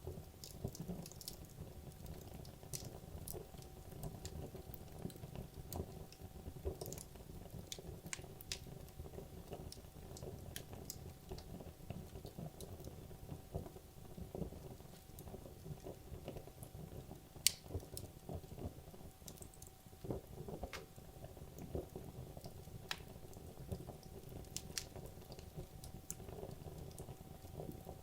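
Wood logs burning in a fireplace: a steady low rumble of flames with frequent irregular sharp crackles and pops, the loudest pop about two thirds of the way through.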